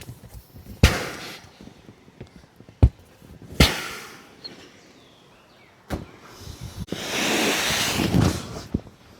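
Several sharp knocks, then nearly two seconds of even rushing noise near the end.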